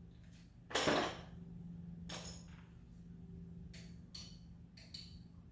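Metal tools and engine parts clinking and knocking in an engine teardown: a handful of separate strikes, the loudest about a second in, several with a short metallic ring. A low steady hum runs underneath.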